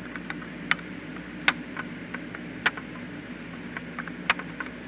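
Scattered sharp clicks and taps from handling a 1/18-scale model car, over a steady low hum.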